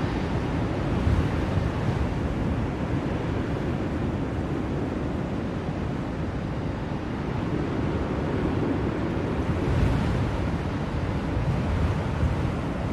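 Blizzard wind blowing steadily, a rushing noise that swells and eases in slow gusts.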